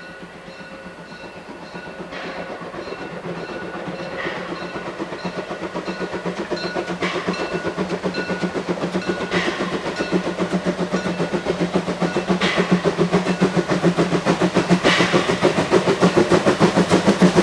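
Narrow-gauge steam train approaching, its rapid, even chuffing beat growing steadily louder, with a sharp metallic clank every two to three seconds.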